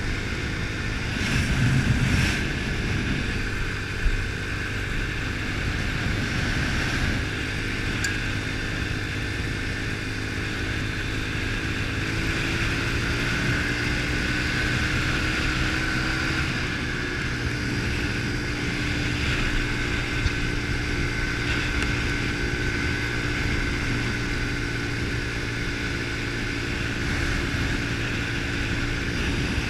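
110cc pit bike's single-cylinder four-stroke engine running steadily under way. Its pitch climbs gradually partway through as it speeds up, then holds.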